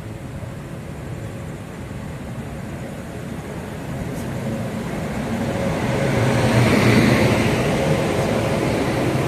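Train running on the rails, a rumble and clatter that grows steadily louder and is loudest about seven seconds in.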